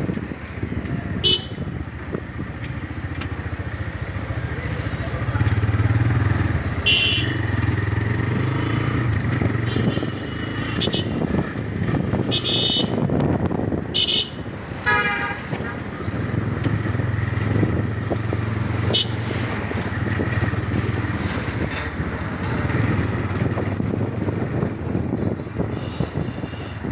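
TVS Raider 125's single-cylinder engine and exhaust on the move, the note swelling and easing with the throttle, with a brief higher-pitched sound about fifteen seconds in.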